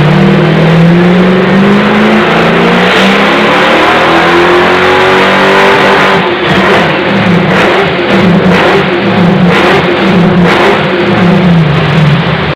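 1967 Camaro's 383 stroker V8 running loud through a dual 3.5-inch stainless exhaust with an X-pipe and two large mufflers. The engine pitch climbs steadily for about six seconds, then the throttle is blipped again and again, about once a second, before the sound cuts off.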